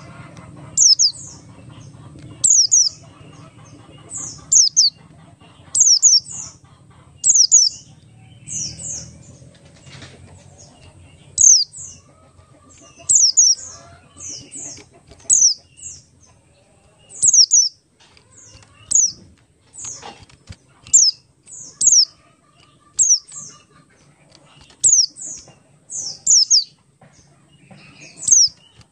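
White-eye (pleci buxtoni) calling: short, high, down-slurred chirps, often in quick pairs, repeated every second or two.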